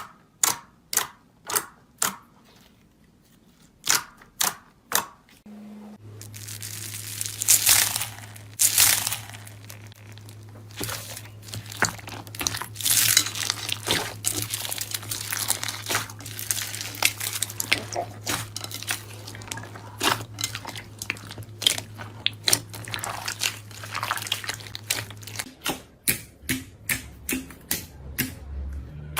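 Sharp clicks about two a second, then a long stretch of dense crackling, crunching and crumpling as something crunchy is crushed, with a faint steady hum under it; the clicks return near the end.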